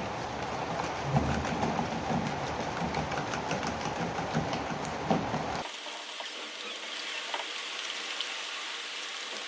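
Rain falling, a steady hiss with scattered patters of drops. About halfway through the sound cuts abruptly to a thinner, higher hiss.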